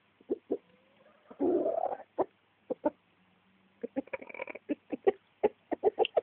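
Hens clucking: a run of short clucks that come faster in the second half, with one louder, longer call about a second and a half in.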